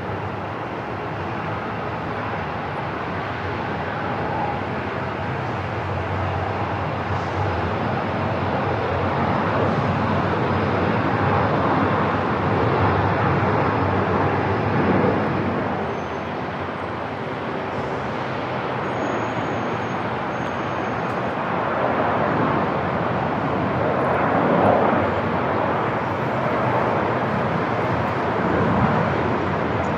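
Airport ambience: a steady rushing noise of aircraft engines that swells and eases, loudest a little before the middle and again near the end, with a few faint short high tones a little past halfway.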